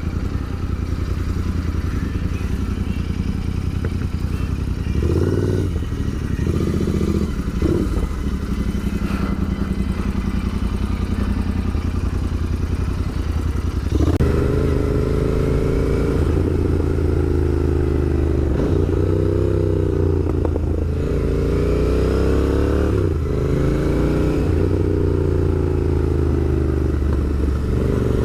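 Royal Enfield Interceptor 650's 648 cc parallel-twin engine running under way on the road. In the second half it pulls harder, its pitch rising and then dropping back several times as it goes up through the gears.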